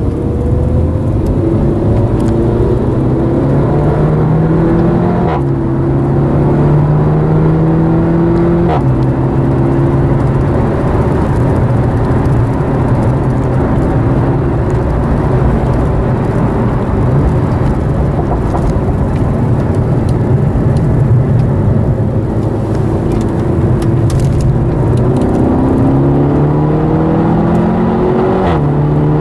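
SEAT Leon Cupra's turbocharged four-cylinder engine heard from inside the cabin under hard track driving. The revs climb and fall sharply at two quick upshifts in the first nine seconds, then hold steady for a long stretch. They climb again to another upshift near the end, over steady tyre and road noise.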